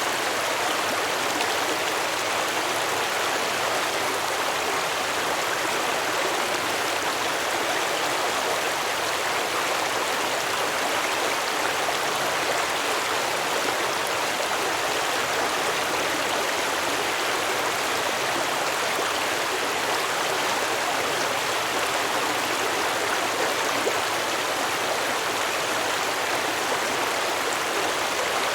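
A stream running over rocks: steady babbling water.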